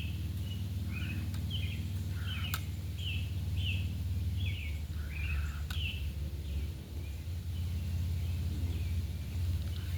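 A bird calling over and over in short chirping notes, about two a second, over a steady low rumble. Two sharp clicks, about three seconds apart.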